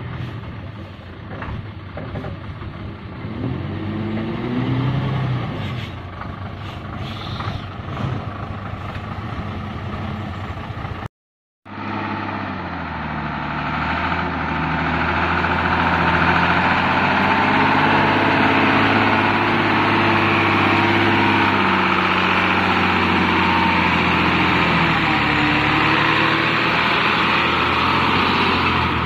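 Six-cylinder Hino diesel engine of a modified truck running with its pitch wavering, rising briefly a few seconds in. A sudden cut a little over ten seconds in is followed by the engine running louder and steadier.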